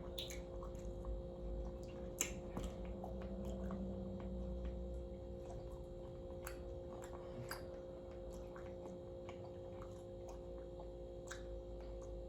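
Quiet eating sounds of fried chicken legs: faint chewing and scattered small mouth clicks, over a steady low hum.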